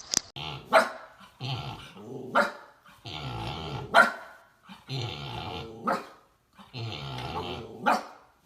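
A dog growling in repeated stretches, each ending in a short sharp bark, about five times over the clip.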